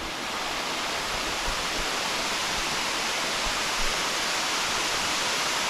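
Fast-flowing creek water rushing below a spillway, a steady, even hiss.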